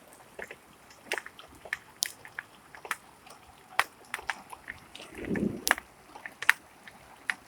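Rain heard as scattered, irregular ticks and splats of drops landing on hard surfaces over a faint hiss, with a short muffled low thud about five seconds in.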